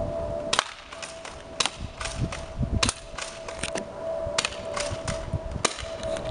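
Airsoft gun firing single shots at cans: about a dozen sharp, unevenly spaced cracks over a faint steady hum.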